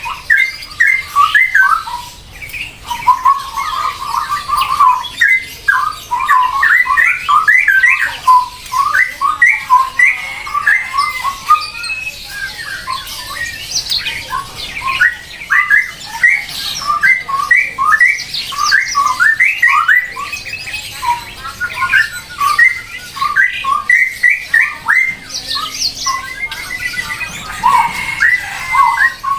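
Birds squawking and chattering without pause: a dense stream of short, rapid calls.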